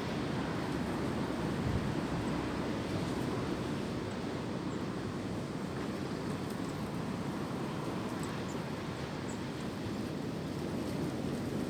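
Wind blowing steadily through tree branches, an even rushing noise.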